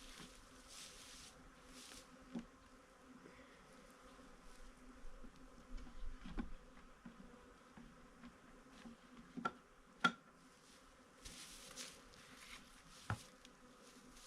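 Honeybees buzzing faintly around a hive, a steady low hum, with a few sharp clicks scattered through it.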